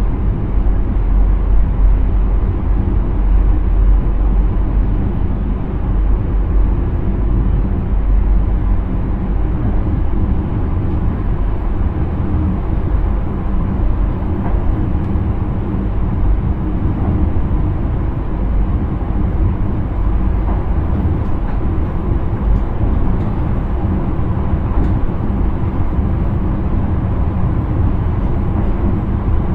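Intercity train running on the line, heard from inside the driver's cab: a steady, loud low rumble of wheels on rails and running gear that holds even throughout.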